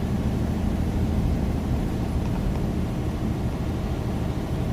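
Steady drone of a semi tractor's diesel engine and tyres, heard from inside the cab while cruising at about 40 mph on a snow-covered highway.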